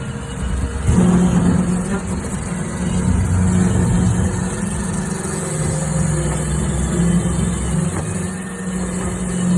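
Roomba robot vacuum running: a steady motor hum with held tones that shift a little in pitch, getting louder about a second in.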